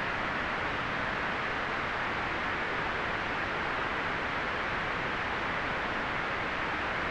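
Steady white noise played as a relaxation sound: an even, unchanging hiss, fullest in the upper middle and dull at the very top.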